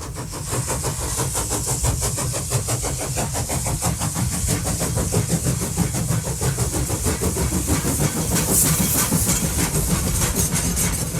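A train running, with a fast regular pulsing over a low rumble and a steady hiss.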